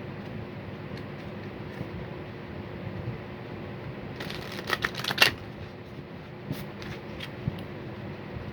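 A deck of oracle cards being shuffled by hand: a quick flurry of card snaps about four seconds in, then a few single taps, over a steady low hum.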